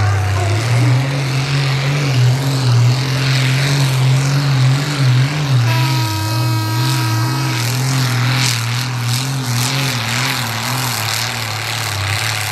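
Continental AVI-1790 air-cooled V12 tank engine of a 3.5 t pulling tractor running hard under load during a pull. Its deep note wavers up and down throughout. A brief steady tone sounds over it about six seconds in.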